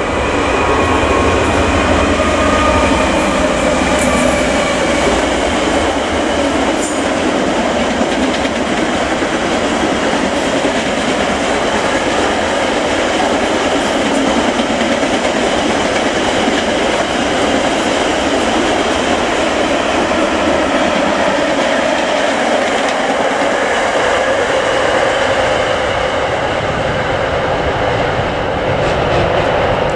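A diesel-hauled freight train passing close by. The wheels on the rails make a steady, loud rumble for the whole length of the train, with a faint high whine in the first few seconds.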